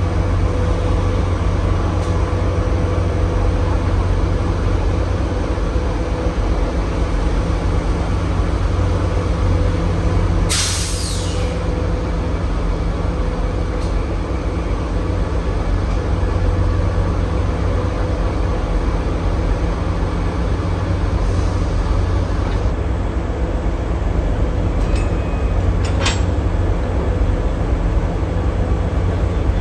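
Locomotive running steadily at close range, a deep drone with low steady hum tones. About ten seconds in comes a brief loud hiss.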